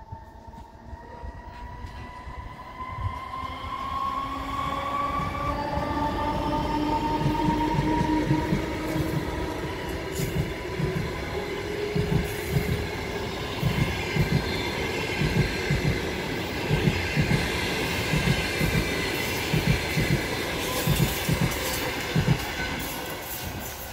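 EP20 electric locomotive approaching with a whine that rises in pitch, the pitch dropping as it passes. Then a long rake of passenger coaches rolls by with a rapid, regular clatter of wheels over rail joints, fading near the end.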